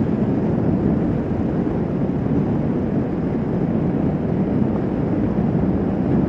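Motorcycle riding at steady speed: engine and road noise with wind rushing over the microphone.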